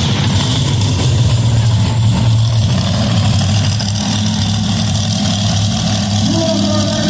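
Monster truck engine running steadily, its pitch stepping up slightly near the end.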